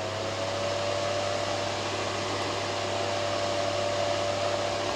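Philips fan heater running on its fan-only setting, elements off: a steady rush of air with a steady whine from the fan motor, which rises slightly and levels off in the first second as it comes up to speed.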